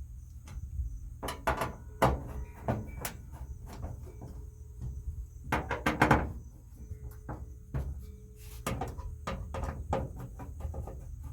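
Hands pressing and smoothing a sheet flat against a truck's inner door panel, working out wrinkles and bubbles: scattered rustles, taps and light knocks in an irregular string.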